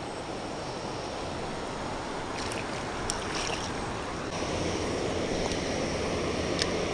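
Steady hiss of rain and moving river water, growing slightly louder about four seconds in, with a couple of faint clicks.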